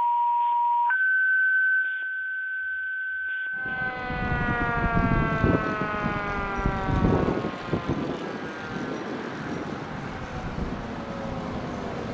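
A two-tone dispatch page as heard over a scanner radio: a steady tone of about a second, then a higher steady tone for about two and a half seconds. It is followed by a fire engine's siren sliding slowly down in pitch over several seconds, over the rumble of the engine and road noise.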